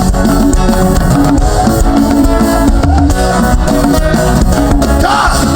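Live gospel band playing between sung lines: electric guitar and drum kit keeping a steady beat.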